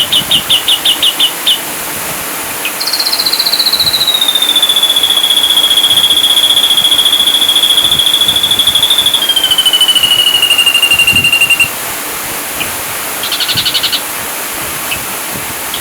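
Ashy drongo song: a quick run of short high notes, then one long whistle that slides down in pitch in steps over about nine seconds, and a short rapid trill near the end, over a steady hiss.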